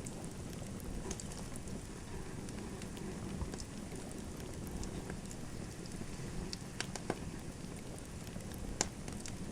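Wood fire in a fireplace burning with a steady low rush of flames and scattered sharp crackles and pops, one louder snap near the end.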